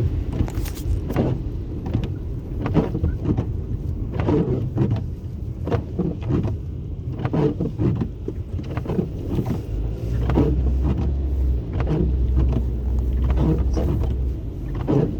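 Car driving, with a constant low rumble and frequent irregular knocks and thumps. A deeper steady hum comes in about ten seconds in and stops near the end.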